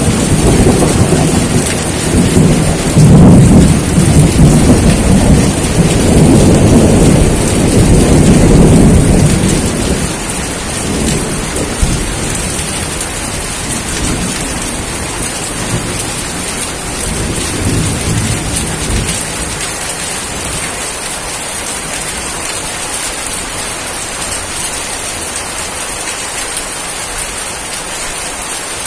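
Steady heavy rain with rolling thunder. A long low rumble runs through the first ten seconds or so and dies away, a fainter rumble comes briefly around two-thirds of the way through, and then only the rain is left.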